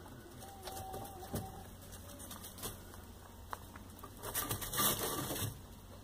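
A faint call from a farm bird about a second in, among scattered small clicks, with a burst of rustling noise near the end.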